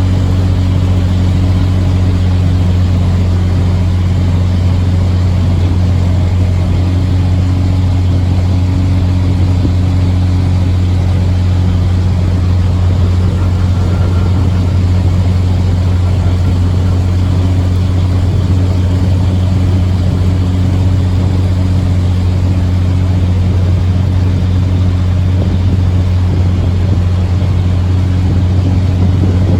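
Narrowboat's diesel engine running steadily while cruising under way: a loud, even low hum.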